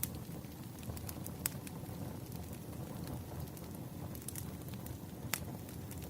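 Bonfire crackling: a steady low rumble of burning with scattered sharp pops of wood, the loudest about a second and a half in and again near the end.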